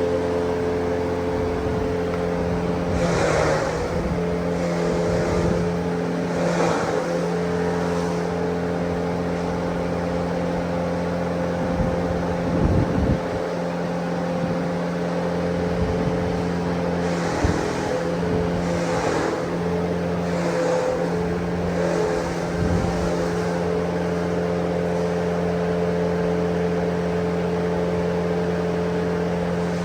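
Motor-driven grass chopper running steadily, with a few brief surges every few seconds.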